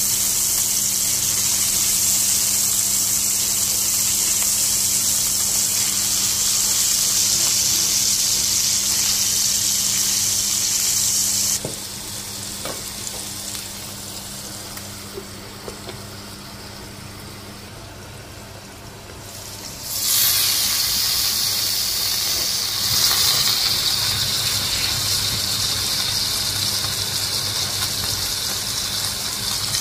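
Lamb kofta sizzling in hot oil in a skillet. About twelve seconds in the sizzle drops suddenly to a muffled hiss as a glass lid covers the pan, and about twenty seconds in it comes back loud as the lid comes off.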